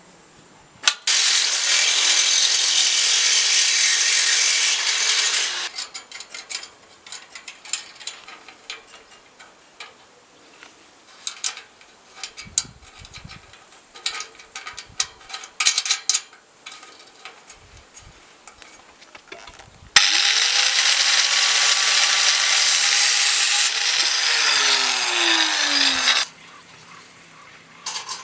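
A power tool runs in two long, loud stretches of several seconds each, the second ending with a falling whine as it spins down. Between them come scattered clicks and knocks of handling and workshop work.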